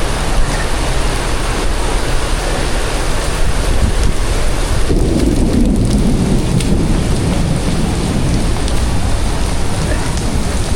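Heavy rain pouring down in a thunderstorm, a dense steady hiss, with a low rumble swelling about five seconds in.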